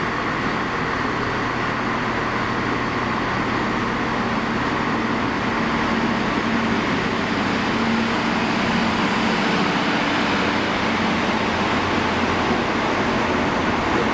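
Transport for Wales diesel multiple unit running along the platform, its diesel engine humming under the rumble of wheels on the rails. The sound grows gradually louder as the train draws alongside.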